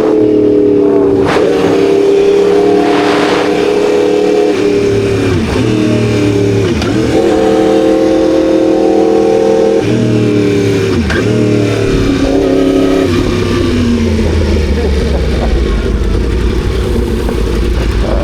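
Kawasaki ZX-10R's inline-four engine running on the road, its steady note dipping briefly in pitch four or five times. Near the end the engine tone fades under a low rumble.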